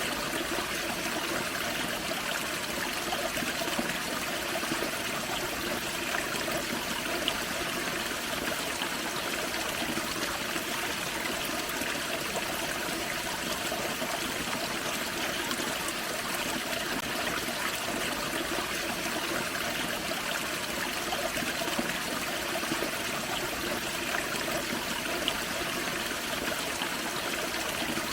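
Steady rush and trickle of a small waterfall on a forest creek.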